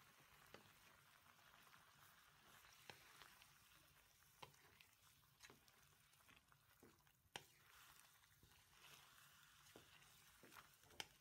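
Pork sizzling faintly in a pan with soy sauce, with scattered sharp clicks and scrapes as a wooden spatula stirs the pieces.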